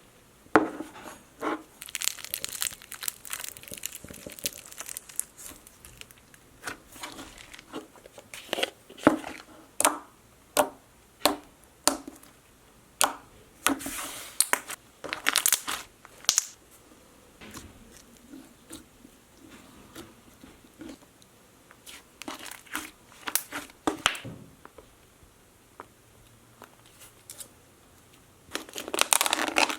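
Slime squeezed, stretched and poked by hand, giving irregular crackling and popping sounds, with a denser run of crackles near the end.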